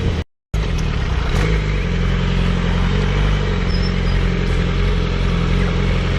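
A vehicle engine running steadily while on the move, with road and wind noise, after a brief dropout near the start.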